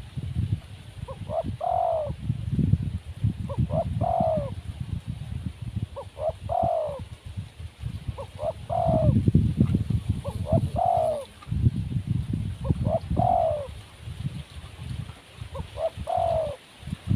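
Spotted dove (tekukur) cooing its phrase over and over, about every two and a half seconds, each phrase a few short notes ending in a longer falling coo. Under it runs a loud, irregular low rumble.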